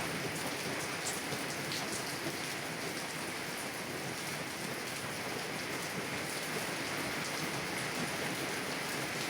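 Heavy rain falling on a car window: a steady, even hiss with scattered drop taps.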